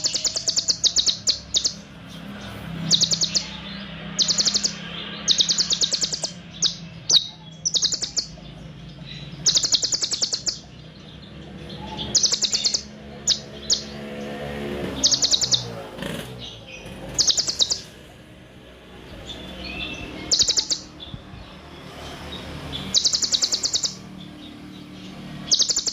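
Kolibri ninja (sunbird) singing in rapid-fire bursts: short, dense, very high trills of fast ticks, each lasting about half a second to a second and repeated every second or two, over a faint low hum.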